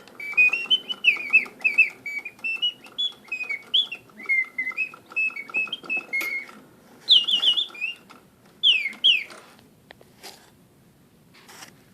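French Bontems automaton singing-bird cage: its clockwork-driven whistle sings a warbling run of whistled trills, slides and chirps, with faint regular clicking from the mechanism underneath. The song stops about nine seconds in, followed by a couple of clicks.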